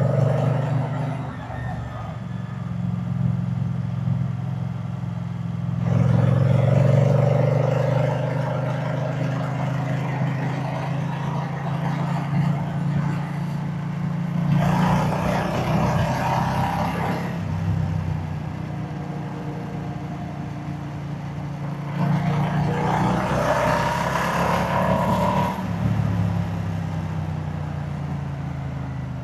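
Moto Guzzi V-twin motorcycle engine and exhaust running on the move, with three louder stretches of throttle, about six seconds in, midway and near the end.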